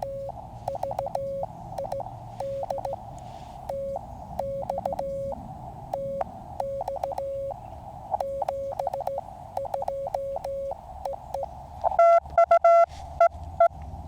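Morse code (CW) tones from a QCX mini QRP transceiver: a steady tone keyed in dots and dashes over receiver hiss, then a louder, higher-pitched keyed burst about twelve seconds in.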